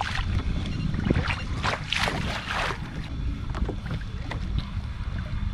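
Wind buffeting the microphone over water sloshing and splashing against a kayak hull, with a louder surge of splashing about two seconds in.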